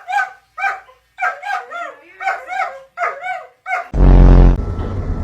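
A small dog giving a rapid run of short, high, rising-and-falling yelping cries, about two or three a second. About four seconds in, the cries stop and a loud low buzz cuts in, followed by a steady hum.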